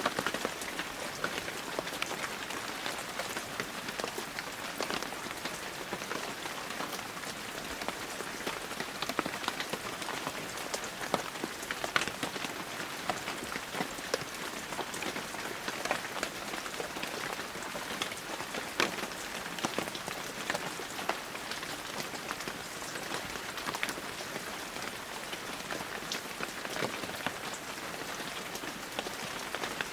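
Steady heavy rain falling on surfaces, a continuous hiss with many sharp individual drop hits scattered throughout.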